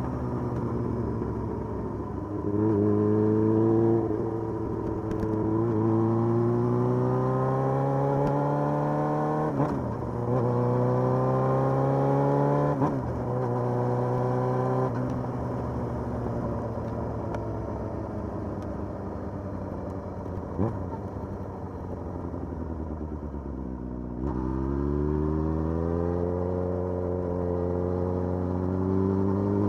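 Motorcycle engine pulling through the gears: its pitch climbs and drops back at each upshift, twice, then holds fairly steady for a stretch. About three-quarters through it dips low, then climbs again.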